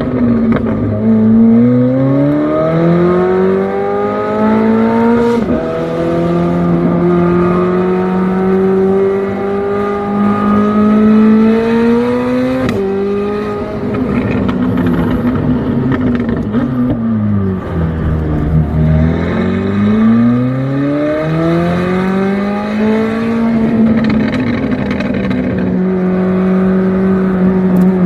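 McLaren 765LT's twin-turbo V8 exhaust pulling hard through the gears, its pitch climbing and then dropping sharply at two upshifts. Further on it drops in steps as the car slows and downshifts, climbs again under throttle, and settles to a steady drone near the end.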